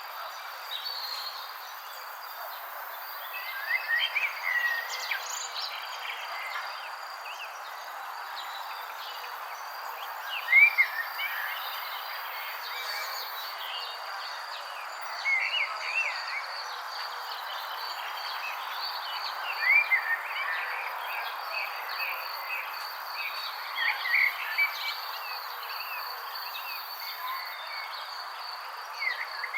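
Birds chirping in scattered clusters of short quick calls over a steady high-pitched drone and a constant background hiss.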